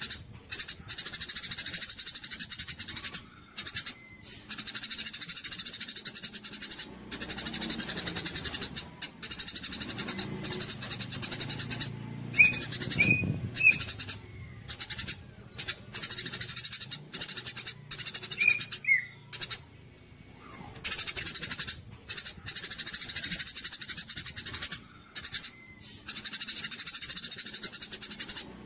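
A gereja cililin songbird singing a loud, very high, fast trill, repeated in bouts broken by short pauses. A few short, lower falling whistles come in the middle.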